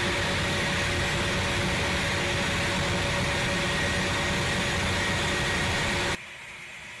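Steady jet engine and airflow noise heard inside an aircraft during aerial refuelling, with a few constant hum tones over a loud rushing. It drops off suddenly to a much quieter hiss about six seconds in.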